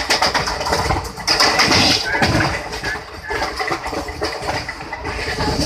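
Train running at speed, heard from inside a carriage at an open window: a steady rush of wheel and wind noise with rattling, loudest a little over a second in.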